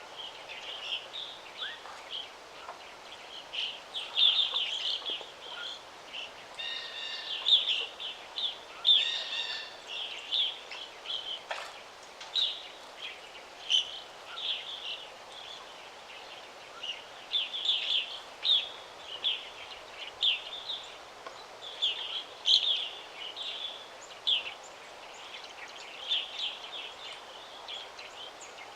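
Several songbirds chirping and calling in quick, overlapping phrases, with a few buzzier calls mixed in, over a faint steady background hiss.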